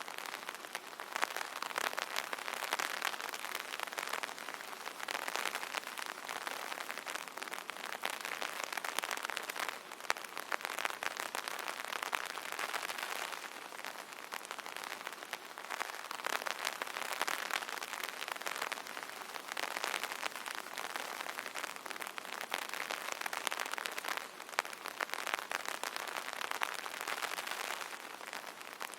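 Rain pattering on an umbrella canopy: a dense, steady patter of drops that swells and eases every few seconds.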